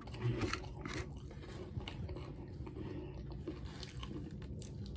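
A person chewing a mouthful of food close to the microphone: faint, irregular wet mouth clicks and small crunches.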